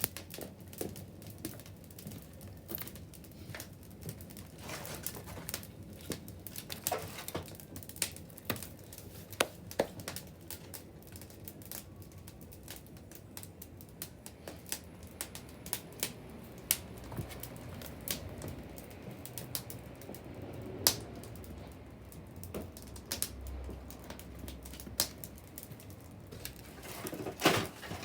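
Wood fire crackling: a steady run of irregular snaps and pops over a low hiss, with a few louder pops now and then.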